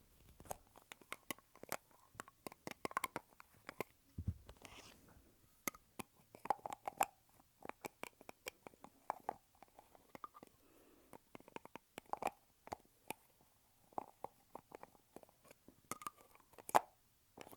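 Lipstick tubes and their caps handled close to the microphone: a busy, irregular run of small plastic clicks and taps, several a second, with a low thump about four seconds in and a louder click near the end.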